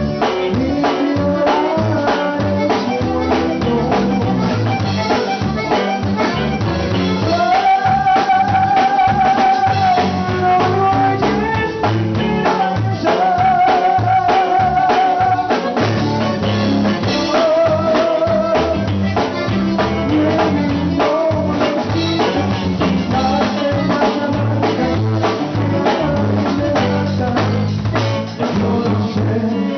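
A band playing a conjunto song with drums keeping a steady beat and singing, with long held melody notes partway through.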